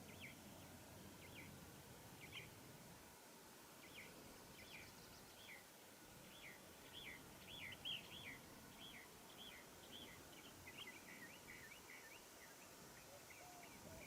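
Near silence with a small bird chirping faintly: short high notes that drop in pitch, repeated a couple of times a second and coming quicker near the end.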